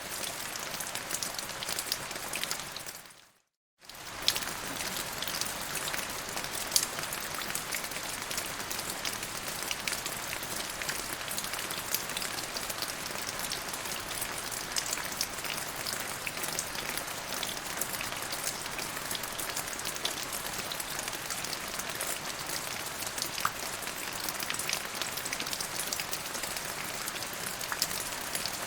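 Steady rain falling on surfaces, a continuous hiss dotted with the sharp ticks of individual drops striking. The sound cuts out briefly about three seconds in, then resumes.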